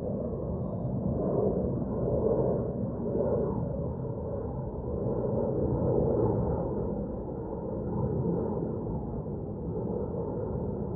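Wind rushing in gusts, swelling and easing every couple of seconds.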